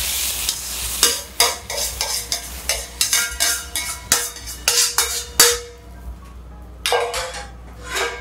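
Metal ladle scraping and clinking against a wok as the stir-fry is pushed out onto a plate: a quick run of scrapes and clinks with brief metallic ringing, then a couple more clatters near the end. The last of the sizzling dies away in the first second.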